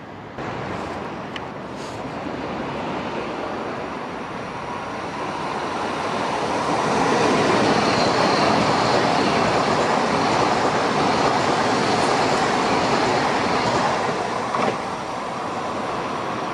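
Passenger train passing at speed: the rush of wheels on rail builds over several seconds, stays at its loudest for about seven seconds as the train goes by, then drops away after a short sharp click near the end.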